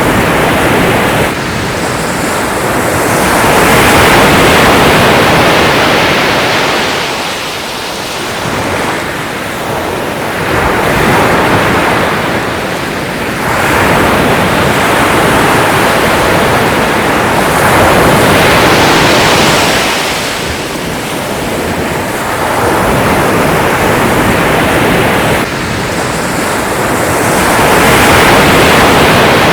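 Sea waves breaking and washing in, the surf swelling and ebbing every few seconds.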